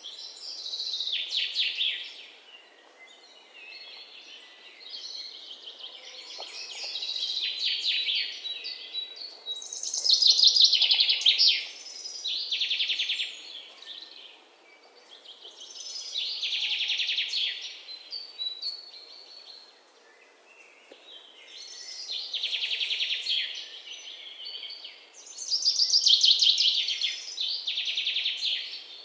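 A songbird singing: repeated phrases of rapid, trilled chirps, each a second or two long, coming every few seconds over a faint steady hiss.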